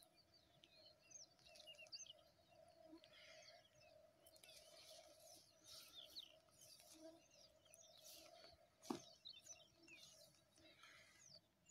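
Faint birds chirping, many short quick calls scattered throughout, over a faint steady hum, with one sharp knock about nine seconds in.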